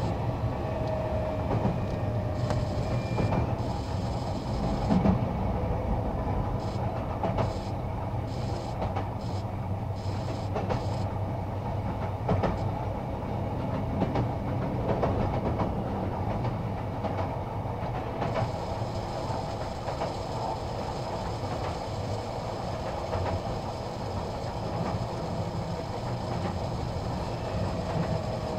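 Running noise inside a Sotetsu 20000 series electric train car: a steady rumble of wheels on rail with scattered clicks.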